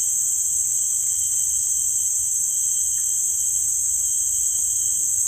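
Steady, high-pitched chorus of insects, several shrill tones held without a break.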